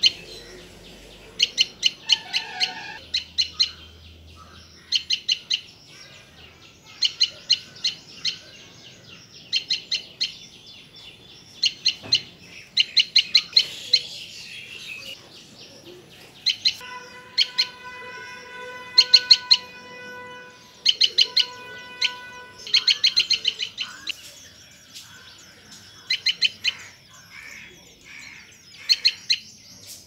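Tailorbird calling: loud, sharp chirps in quick bursts of three to six notes, a new burst every second or two. Partway through, a steady humming tone with overtones sounds for about three seconds, breaks off, and comes back for about a second.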